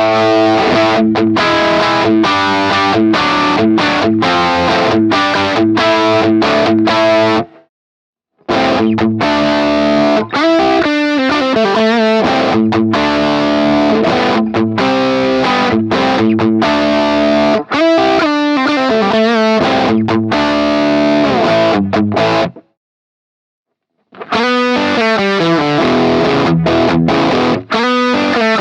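Electric guitar boosted by a BSM HS-S silicon-transistor treble booster, playing distorted rock riffs with a bright, mid-heavy edge. The playing breaks off abruptly into silence twice for about a second, near eight seconds in and again about four-fifths of the way through.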